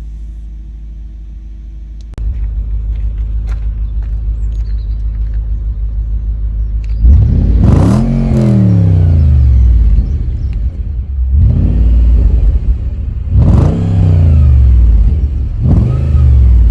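Audi V8 engine idling, louder about two seconds in, then revved four times, each rev rising and falling back to idle; the second rev is shorter.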